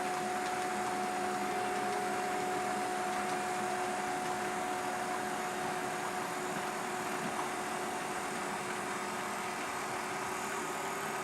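Two model Conrail GP35 locomotives running steadily with a loaded ore train on a model railroad layout: an even running hum with a constant whine.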